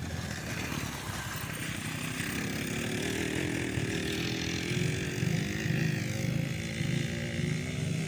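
Small petrol engines of kids' go-karts or dirt bikes running, their pitch rising and then easing off in the middle as the throttle changes.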